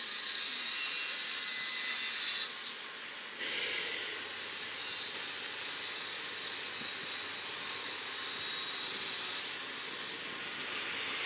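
Steady hiss and running noise of a train moving slowly through a station yard, with a short drop about three seconds in.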